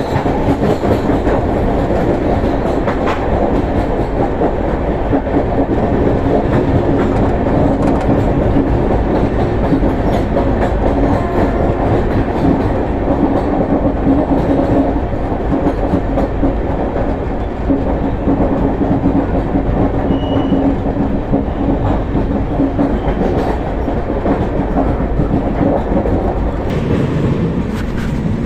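Gitanjali Express passenger train running on the rails: a steady, loud rumble of wheels and coaches with a clickety-clack over the rail joints and a steady low hum that fades near the end.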